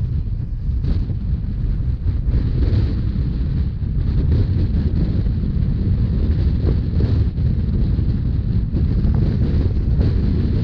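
Wind buffeting the microphone over the steady low rumble of a Rhaetian Railway narrow-gauge train running. A few light knocks stand out here and there.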